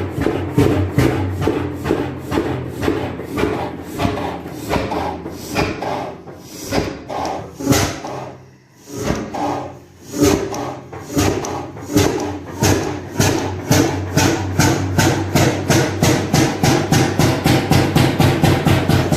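Old single-flywheel hot-bulb oil engine running with a slow, even knock of its firing strokes, about two a second. It slows and almost dies about eight seconds in, then catches and picks up speed to about three beats a second.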